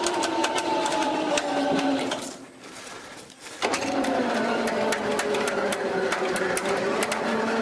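Electric winch motor running under load as it drags a vehicle onto a trailer, a steady whine with fine clicking. It stops for about a second and a half around two seconds in, then starts again.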